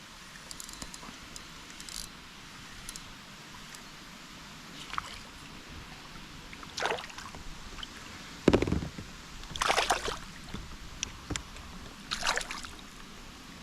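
Water splashing and sloshing against a kayak, in several short separate splashes. A single sharp thump about eight and a half seconds in is the loudest sound.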